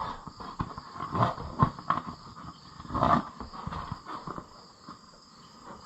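Scattered light knocks and clinks of parts being handled, with a few short strained grunts.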